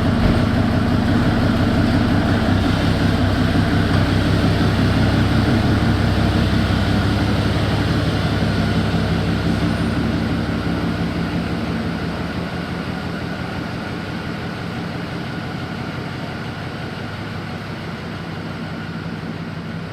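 An engine running steadily, a low even rumble that fades gradually over the second half.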